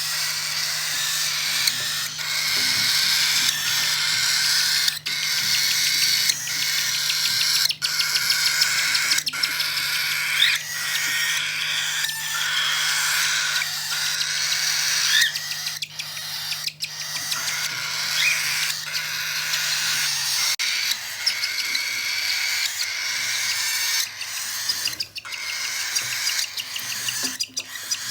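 Cockatiel chicks making rapid, buzzy begging calls while being hand-fed, with scattered sharp clicks.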